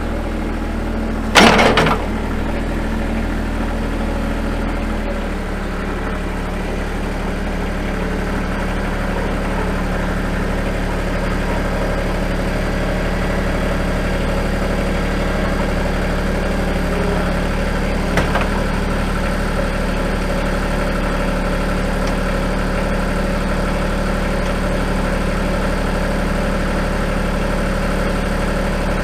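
Tractor engine running steadily, with a loud clunk about a second and a half in and the engine note settling slightly lower around five seconds in.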